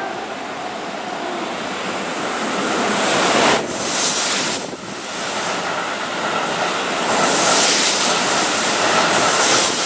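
Keihan 3000-series electric train running close past the platform: a steady rush of wheel and rail noise that grows louder as the cars go by, with a short dip about four seconds in.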